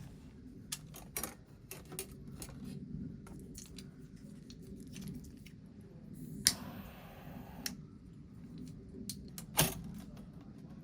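Small clicks and knocks of objects being handled, with a short hiss about six and a half seconds in and a sharp click near the end.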